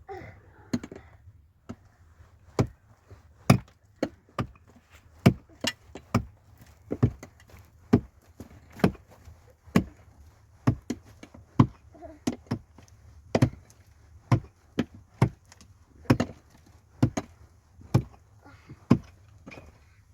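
A steady series of sharp chopping blows, about one a second, each a short hard knock.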